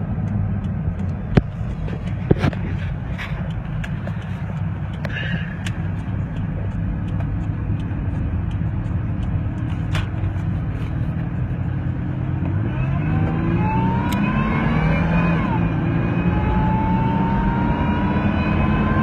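Toyota pickup V8 with a TRD supercharger, heard from the cab: it runs along steadily for about twelve seconds, then is floored, its note climbing along with a rising supercharger whine as it builds about 7 psi of boost. A few sharp clicks sound near the start.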